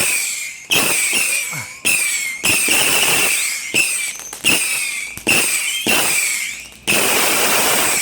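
Fireworks going off in quick succession: about eight sharp reports at uneven intervals of roughly half a second to a second, each followed by a shrill wavering whistle that fades. About seven seconds in, a steady hiss takes over.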